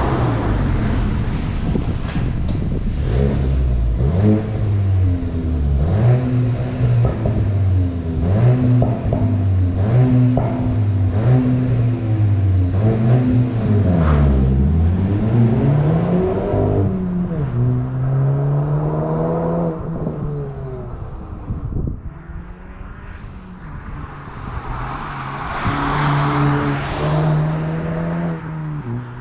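Volkswagen Golf GTI's turbocharged 2.0 TSI four-cylinder petrol engine and exhaust, revving up and down over and over for the first half. It then runs at steadier speeds, goes quieter for a moment, and climbs in pitch again near the end.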